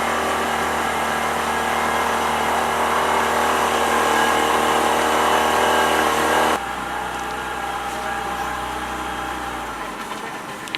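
Tour boat's motor running steadily under way, then throttled back abruptly about six and a half seconds in to a quieter, lower running note, easing off further near the end as the boat slows.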